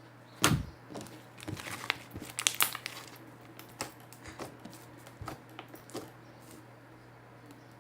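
Slime being handled, squeezed and pressed: a run of irregular sharp pops, clicks and crackles, the loudest about half a second in and again around two and a half seconds in, thinning out in the last couple of seconds.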